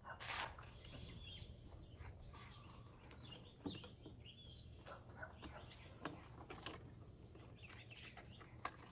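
Faint birds chirping, with a few brief clicks from parts being handled, over a low background hum.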